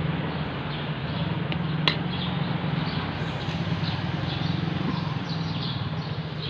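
Papaya-leaf stir-fry sizzling in a wok over a gas burner, over a steady low hum, with one sharp click about two seconds in.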